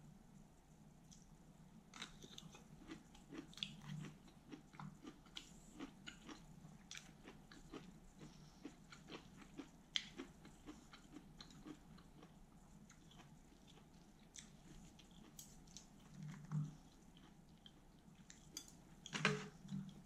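Close-up chewing of a lettuce wrap with pork belly: irregular crisp crunches and wet mouth clicks, with a louder burst near the end.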